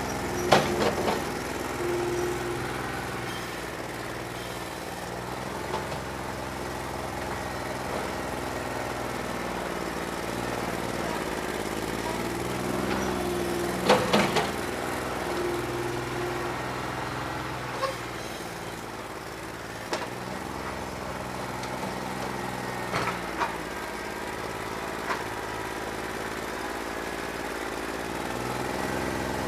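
New Holland 1320 compact diesel tractor engine running on a bad injector, its speed shifting now and then. A few sharp knocks, the loudest near the start and about halfway through.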